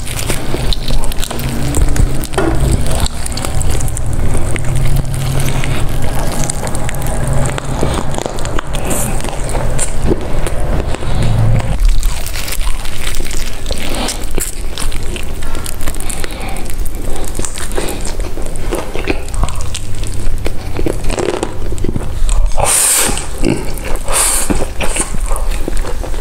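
Close-miked eating sounds: biting, crunching and wet chewing of crispy fried food, continuous with crackling bites.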